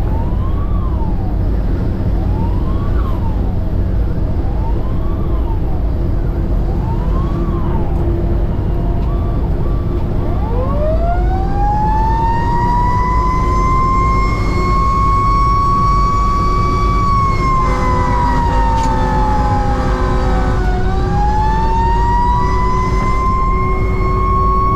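A fire engine running with sirens: the diesel engine drones while an electronic siren sweeps up and down, then a mechanical siren winds up from a low pitch to a high whine about ten seconds in, holds it, sags and winds back up. A horn sounds for about three seconds in the middle of the mechanical siren.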